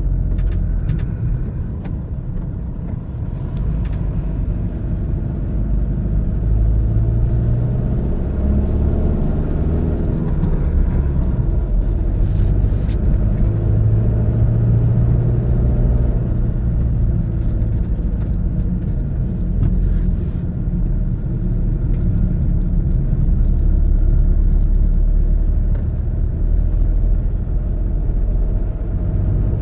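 A car driving: a steady low engine and road rumble, with the engine note drifting up and down with speed, and a few faint clicks.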